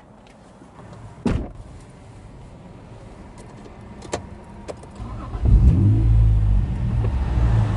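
A few light clicks and a knock, then about five seconds in the V6 engine of a Honda NSX NA1 with a KSP all-titanium exhaust starts and carries on with a loud, steady low rumble.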